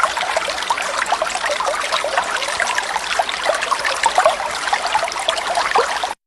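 Waterfall water trickling and splashing in a steady, bubbly stream, with no bird calls over it; it cuts off abruptly just before the end.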